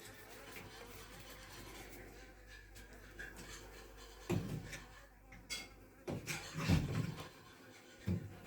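Handling noises during hive work: several knocks and rubbing, scraping sounds that begin about four seconds in, the longest and loudest a little before the end, over a faint steady background.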